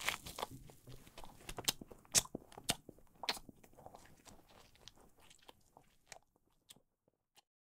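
Close, crunchy chewing of food: irregular sharp crunches several times a second, thinning to a few scattered clicks and stopping near the end.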